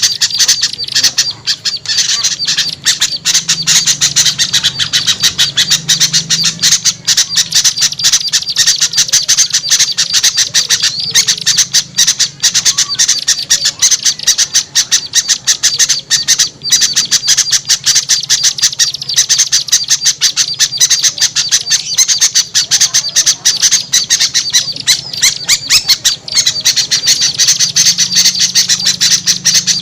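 Bird-trapping lure recording of small birds: a dense, unbroken chatter of many rapid, scolding calls, with a steady low hum underneath.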